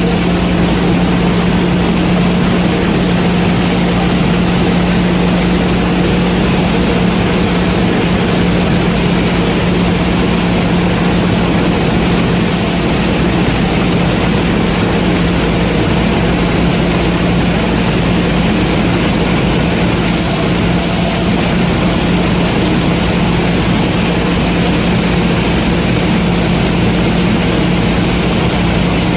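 Combine harvester running steadily while harvesting corn: a constant engine and threshing drone with a strong low hum that does not change.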